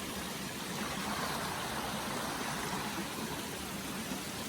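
Steady rushing of a stream flowing under a footbridge, an even hiss of running water.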